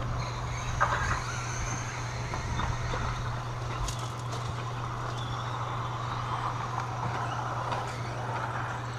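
Radio-controlled stadium trucks racing on the track: a steady whir and whine of their motors and tyres, over a constant low hum, with a sharp click about four seconds in.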